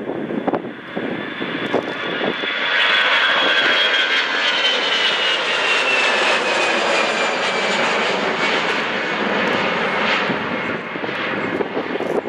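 Jet airliner passing close by: a broad engine roar swells in about two seconds in, with a high turbine whine sliding steadily down in pitch as the plane goes past, then eases off near the end.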